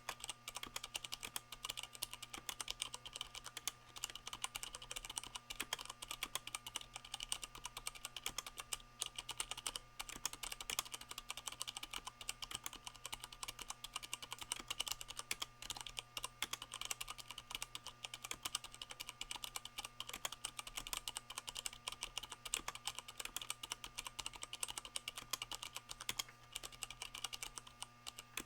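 Continuous fast typing on a Leopold FC660M mechanical keyboard with Cherry MX Brown switches and rubber O-rings under the keycaps, a rapid stream of dampened keystroke clicks.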